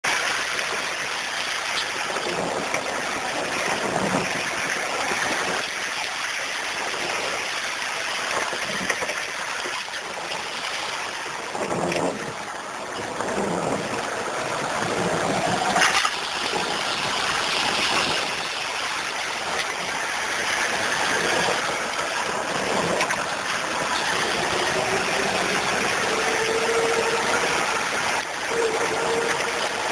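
Vehicle engine running while driving along a rough dirt road, under a steady rushing noise; in the last few seconds the engine note climbs slowly as it revs up.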